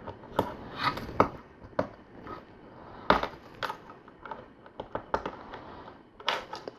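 Irregular small plastic clicks and rattles of LEGO pieces being handled and snapped on as a LEGO chain is fitted across two bars. The sharpest clicks come about three seconds in and again near the end.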